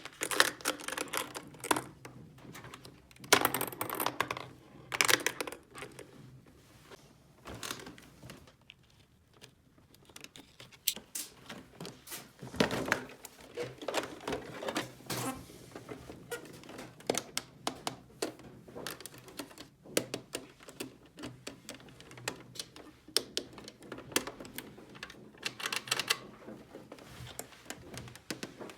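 Hands handling small plastic toy pieces: irregular clicks, taps and light clatter, with a few busier flurries of rattling.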